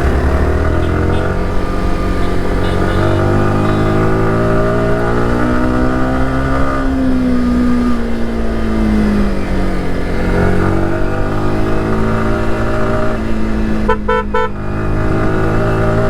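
Single-cylinder sport motorcycle engine running under way, its note rising and falling slowly as the rider opens and eases the throttle. A short horn toot comes near the end.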